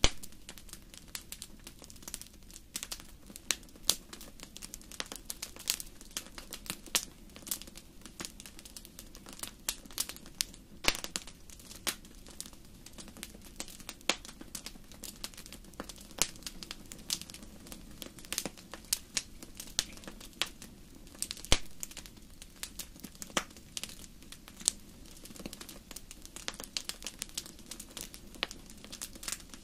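Wood fire burning in a large fireplace, crackling with frequent irregular sharp pops over a steady low rumble of the flames.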